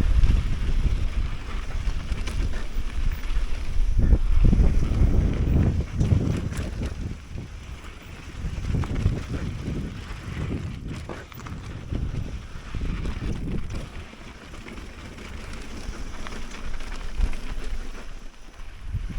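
Wind buffeting the microphone of a camera on a mountain bike being ridden, a low rumble that swells and fades, loudest in the first six seconds.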